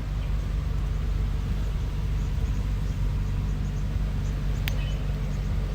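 Bulldozer's diesel engine running steadily with a deep low hum, and a single sharp click about three-quarters of the way through.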